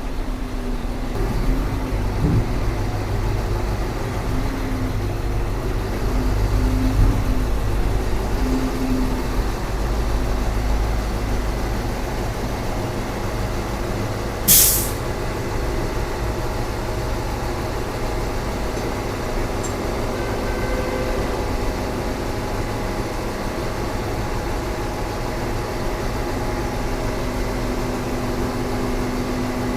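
Heavy diesel machinery engine running steadily with a low rumble, a little louder in the first half. About halfway through there is one sharp, short burst of air hiss.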